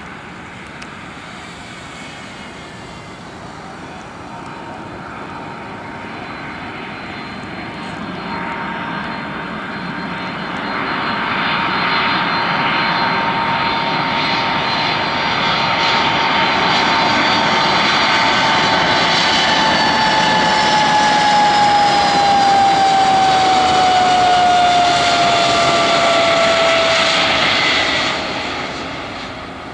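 Airbus A310 twin-engine jet airliner on its landing approach, engine noise building steadily as it nears, loudest as it passes, with a high whine that slides down in pitch as it goes by. The sound drops away quickly near the end.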